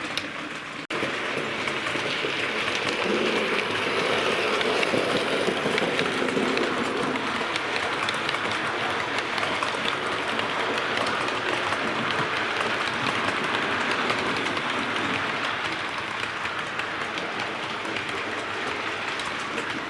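Bachmann OO gauge A1 Pacific model locomotive running along model railway track: a steady rolling whir of its motor and wheels on the rails. The sound cuts out very briefly about a second in, then carries on.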